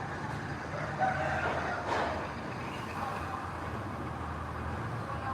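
Heavy earthmoving machinery running steadily, with two short louder knocks about one and two seconds in.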